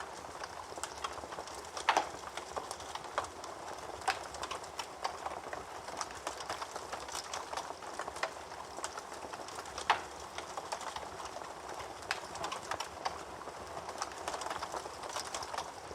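Wood fire crackling in a fireplace: a soft steady hiss with irregular small snaps, and two louder pops, about two seconds in and about ten seconds in.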